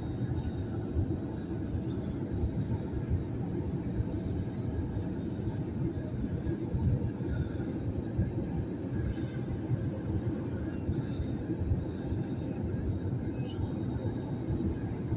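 Airbus A321neo cabin noise: a steady low rumble of engines and airflow heard from inside the passenger cabin, with a few faint clicks.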